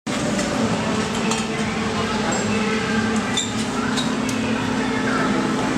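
Sharp metallic clinks of hand tools working on a dirt bike, over a steady low mechanical hum and faint background voices.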